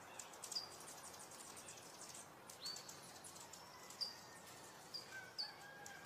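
Birds giving short, high chirps that drop in pitch, about five in six seconds, over a quiet outdoor hiss and faint, rapid insect-like ticking in the first half.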